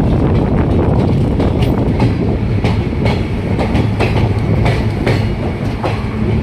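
Passenger train running along the track, heard from on board: a loud, steady rumble with repeated clacks, often in quick pairs, as the coach wheels cross rail joints.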